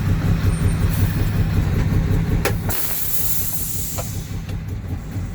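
Heavy truck's diesel engine idling after stopping on a weigh scale. About two and a half seconds in there is a click, then a hiss of air for about a second, typical of the truck's air brakes being set.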